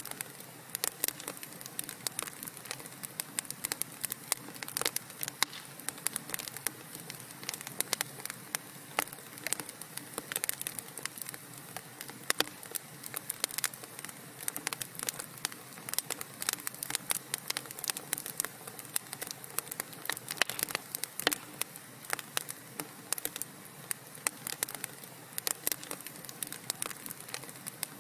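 Wood fire in a fireplace crackling: frequent irregular pops and snaps of varying loudness over a soft steady hiss.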